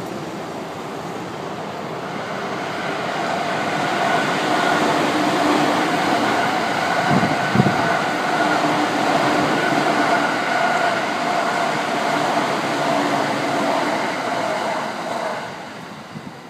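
An electric commuter train on the Tohoku Main Line (Utsunomiya/Takasaki Line) running past close by. Its running noise builds over the first few seconds and carries a steady hum at several pitches, with a pair of sharp knocks about seven seconds in. It falls away quickly near the end.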